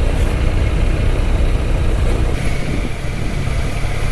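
Yamaha Tracer 900 GT's inline three-cylinder engine running at low speed in traffic, under a steady low rumble of wind and road noise on the rider's microphone. A faint high steady whine joins about two seconds in.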